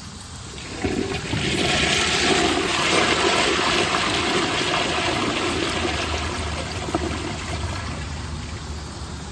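Proflo Jerritt toilet flushing with its tank filled to the normal water line. A click about a second in, then rushing water that is strongest in the first few seconds and slowly tapers off.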